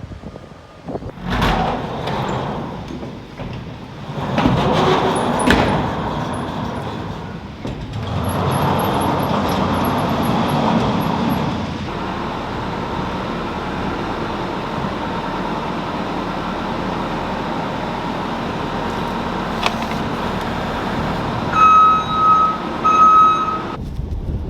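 An engine running steadily, battered by strong wind on the microphone, with a few knocks early on and two short electronic beeps near the end.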